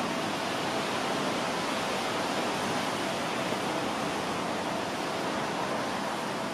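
Steady hiss of heavy rain falling, with a faint steady tone underneath.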